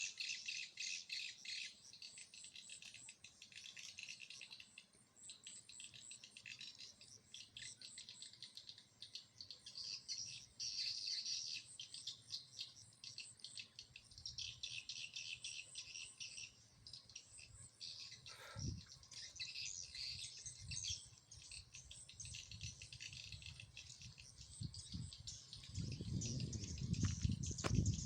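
Swiftlets twittering in a dense, rapid, high chitter that comes and goes in waves. A low rumble joins near the end.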